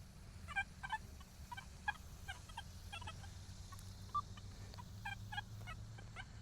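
XP Deus 2 metal detector with an 11x13 elliptical coil giving faint, short tone blips, about a dozen and often in pairs, as the coil is swept back and forth over a gold coin buried about 9 inches deep. This is the detector's target signal for the coin.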